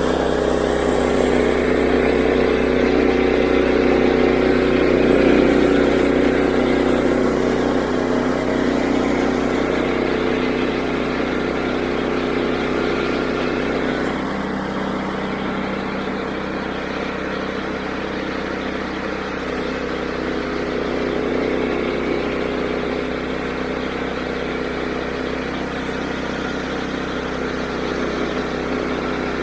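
The 9.5 hp engine of a Woodland Mills HM122 band sawmill running steadily under load as the band blade cuts a slab from a small walnut log. The sound shifts about halfway through.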